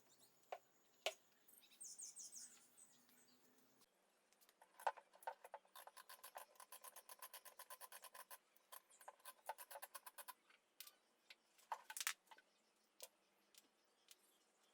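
Faint clicks and taps, with a fast, even run of clicks, about eight a second, lasting about four seconds in the middle, and a few sharper ticks near the end.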